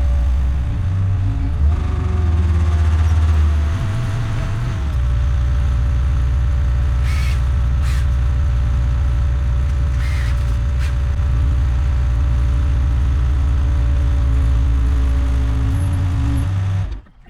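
Heavy diesel engine running steadily with a deep drone, its pitch and load shifting during the first few seconds, with a few faint sharp clicks in the middle. The sound cuts off suddenly just before the end.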